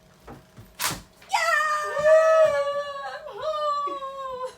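A sharp click about a second in, then a high-pitched voice holding one long wailing note for about three seconds, wavering and sliding slowly down.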